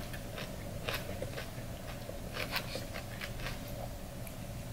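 Veggie coleslaw being chewed close to the microphone: faint, scattered crunches and small mouth clicks.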